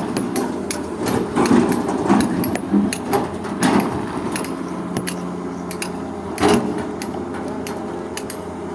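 Excavator's diesel engine running steadily under irregular metallic clanking and clattering, with a few louder knocks.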